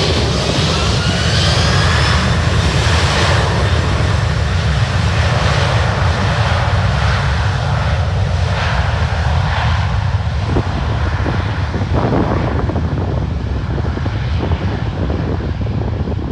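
Jet airliner's engines running loud and steady, a deep rumble under a wide rushing noise. A faint engine whine glides up in pitch in the first couple of seconds.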